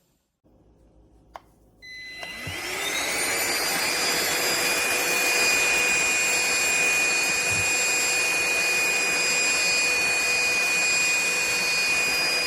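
Aspiron cordless handheld vacuum cleaner: a click, then the motor starts and spins up with a rising whine over about a second. It then runs steadily with a high whine over a rushing of air.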